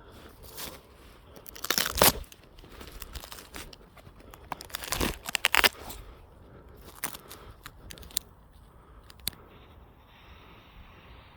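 Close crunching, crackling and tearing handling noises in irregular bursts, loudest about two seconds and about five seconds in, with a few single ticks later.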